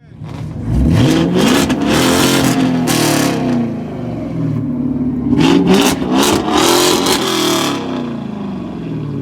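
A car's engine revving hard as it accelerates, its pitch climbing and falling in two loud surges, easing off near the end.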